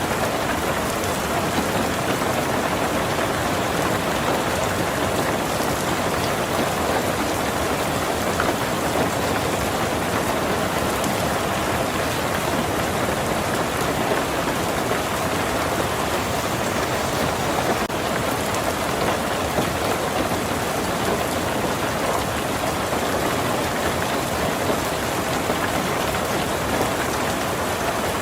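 Heavy rain falling steadily on a tin roof, a dense, even patter with no let-up.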